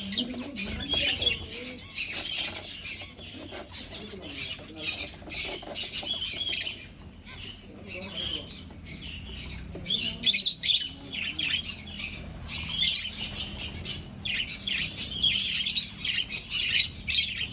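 A flock of aviary finches calling, a dense, continuous chatter of short chirps, busier in the second half.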